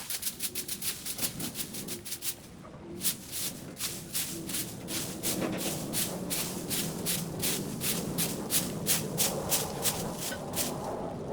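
Quick, even scraping strokes from cleanup work, about three a second, pausing briefly about two seconds in. A low, rough sound grows underneath in the second half.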